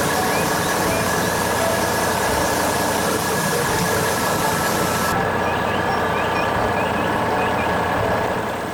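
A heavy vehicle engine running steadily.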